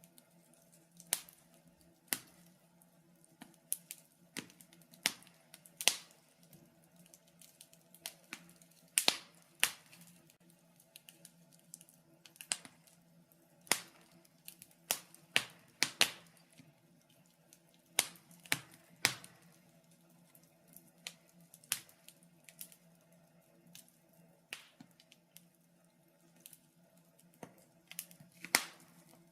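Fire in a fireplace crackling, with irregular sharp pops and snaps, some louder than others, over a faint steady low hum.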